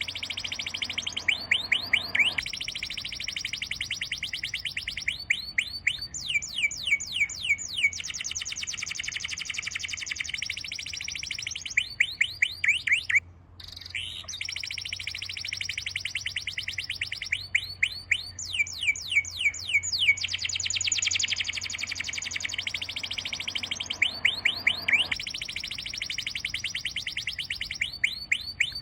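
Songbirds singing: a dense, continuous high trill broken every few seconds by runs of quick, sharp sweeping chirps. The sound cuts out for a moment about halfway through.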